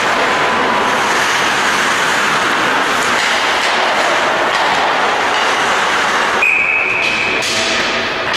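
Steady loud noise of a team game in play in a large hall, with one short, high referee's whistle blast about six and a half seconds in.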